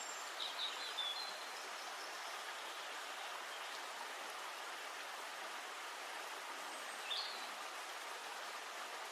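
A few short bird chirps, a cluster in the first second and one more about seven seconds in, over a steady rushing hiss of outdoor ambience.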